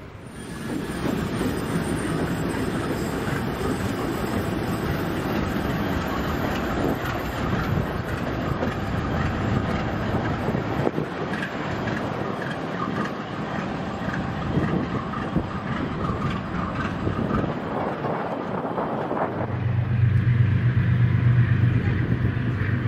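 Railway train noise with wheels rumbling and clattering over the rails. About three-quarters of the way through, a diesel locomotive's engine comes in as a loud, low, steady drone.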